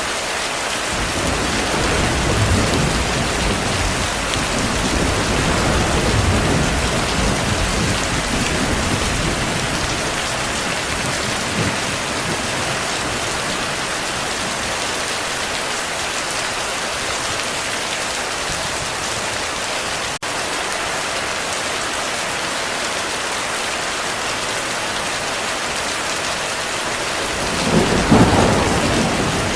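Steady heavy rain with distant thunder: a long low rumble through roughly the first ten seconds, and a louder, sharper thunderclap near the end.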